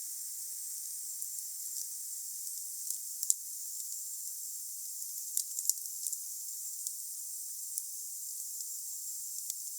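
Wood fire burning: a steady high hiss with sharp crackles and pops at irregular intervals, the loudest a little over three seconds in and again near the middle.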